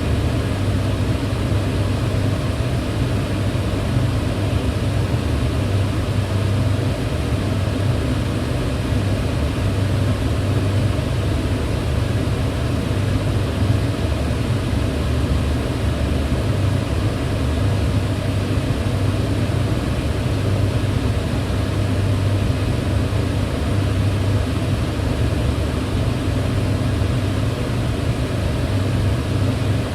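Kitchen range hood fan running steadily: a constant whooshing rush of air over a low hum, with no change throughout.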